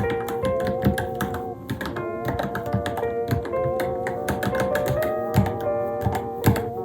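Typing on a Varmilo Minilo mechanical keyboard: quick, uneven key clicks over background music with a sustained, wavering melody.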